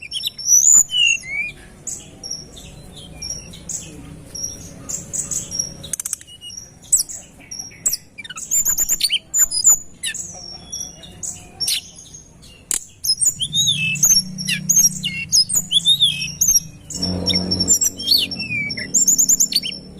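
Tledekan gunung singing vigorously in rapid bursts of sharp, high chirps and short whistled notes with quick upward and downward sweeps, the dense 'tembakan rapat' song style. A low drone comes and goes faintly underneath in the second half.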